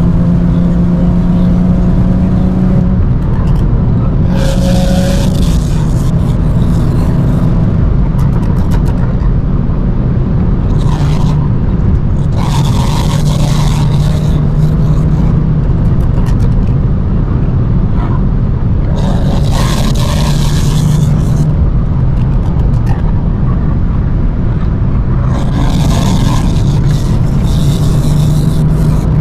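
BMW 335i's N55 turbocharged inline-six heard through a microphone at the exhaust: a steady low drone while the car is driven. Every several seconds a rushing hiss rises over it for a couple of seconds, then fades.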